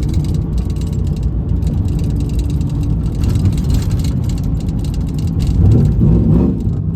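Vehicle engine running with a heavy low rumble, revving up in a rising pitch about six seconds in, the loudest moment.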